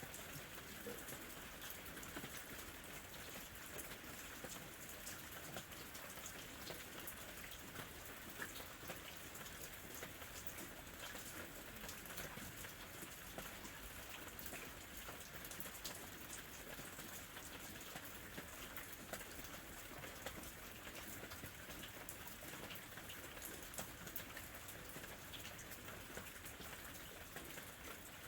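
Gentle, steady rain, with many small drops pattering on a surface.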